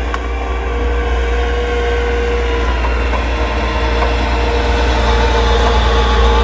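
A heavy engine running steadily: a deep low rumble with a constant hum above it, slowly growing louder.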